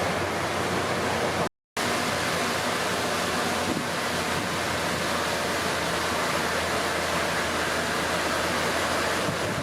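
Komatsu D31P bulldozer's diesel engine running, heard under a steady rushing noise; the sound drops out for a moment about a second and a half in.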